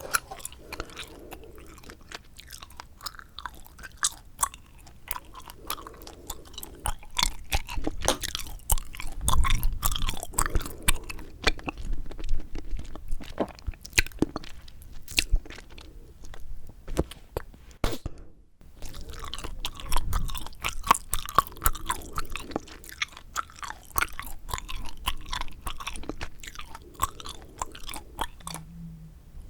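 Bubble gum being chewed close to the microphone: rapid, irregular clicks and smacks of the mouth, with a short pause about eighteen seconds in.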